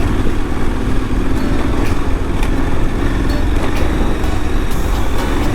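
KTM 1290 Super Adventure's V-twin engine running steadily under way, with wind rush over the microphone.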